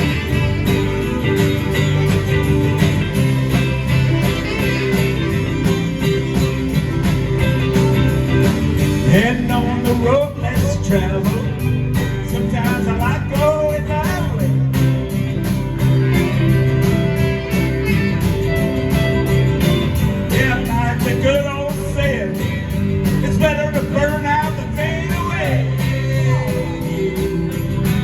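Live band music: a rock and country-style song with a steady beat, bass and guitars, and a lead line sliding up and down in pitch in the middle and again near the end.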